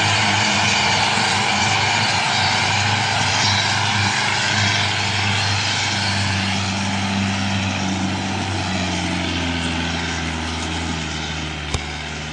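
Mahindra Arjun 555 tractor's diesel engine running steadily while hauling a load of sugarcane; its note shifts about halfway through. A brief click comes near the end.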